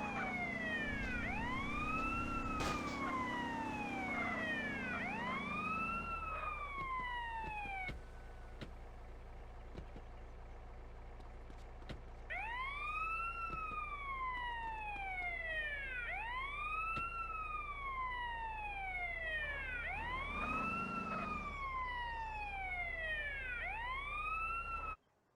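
A siren wailing in repeated cycles, each rising quickly and falling slowly in pitch, over a low steady hum. It pauses for about four seconds partway through, then resumes and cuts off abruptly near the end.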